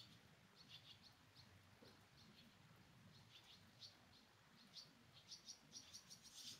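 Faint, short bird chirps repeating, coming faster and thicker near the end.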